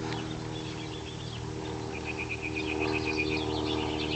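Small propeller plane's engine droning steadily, slightly louder about halfway through. High, rapid chirping joins about two seconds in.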